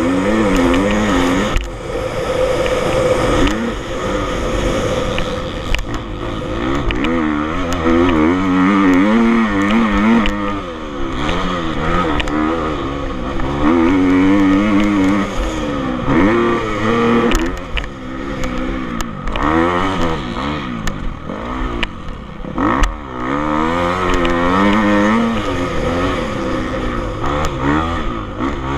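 Motocross bike engines on a track, revving up and dropping off again and again as the bikes ride the course, with pitches rising and falling every second or two and sometimes overlapping.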